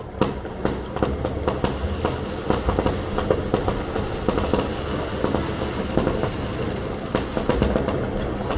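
Fireworks going off in quick succession: a dense, uneven run of bangs and crackles.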